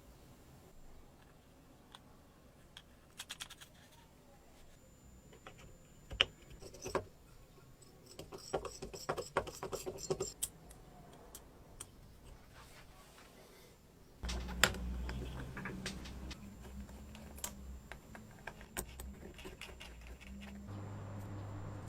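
Small hard parts clicking and clattering as they are handled and fitted, with a few sharper knocks. About two-thirds of the way through, a steady low hum starts suddenly and drops in pitch near the end.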